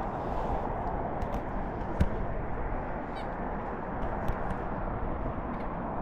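Steady low outdoor rumble, with a few short high chirps and clicks over it, one falling run of chirps about three seconds in.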